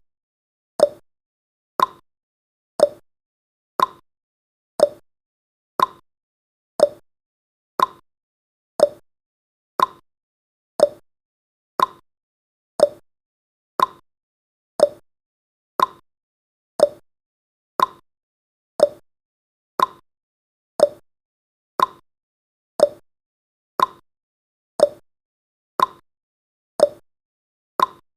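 Clock-style tick sound effect of a countdown timer: a short, sharp tick repeating steadily about once a second.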